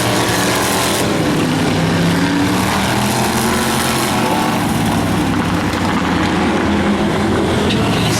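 Demo race cars' engines running hard around an oval track: a steady, loud din of several engines at once, their pitches drifting as the cars circle.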